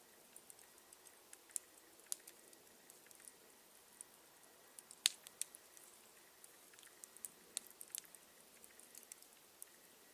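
Campfire burning quietly, with irregular small crackles and snaps of the burning wood and one sharper pop about five seconds in.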